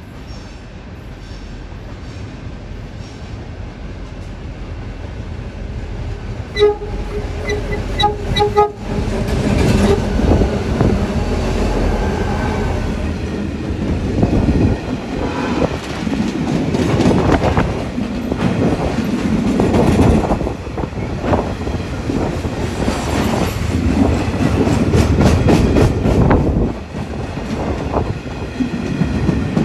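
A train approaches with a rising rumble and sounds a few short horn blasts about seven seconds in. It then passes close by, its wheels clacking steadily over the rail joints for the rest of the time.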